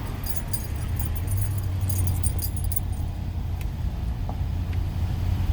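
Steady low hum of an idling vehicle engine. Light metallic jingling runs over it for the first three seconds, then stops.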